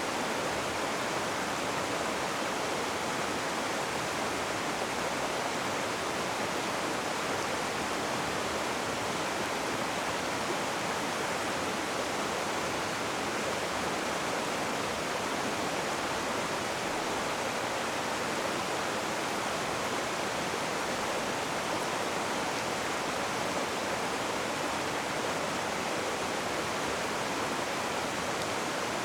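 Rushing water, a steady unbroken roar of fast-flowing river or falling water with no change in level.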